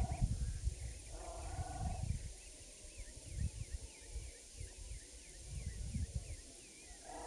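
Barn owl giving harsh, rasping screech calls: one about a second in, lasting under a second, and another starting near the end. Low rumbling noise runs throughout, and faint short chirps repeat in the quieter middle stretch.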